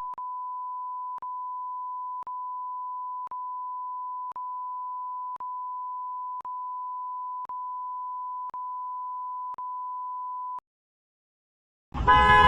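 A steady electronic beep tone at a single pitch, with tiny breaks about once a second, that cuts off suddenly about ten and a half seconds in. After a second of silence, a loud noisy sound starts near the end.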